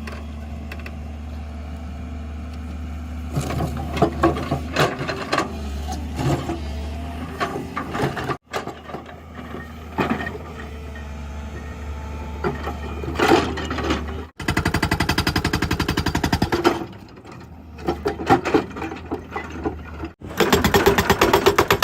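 Excavator engine running under load while a hydraulic rock breaker hammers rock in rapid, evenly spaced blows. The sound comes in several cut-together stretches, some mostly engine, others dominated by the fast hammering.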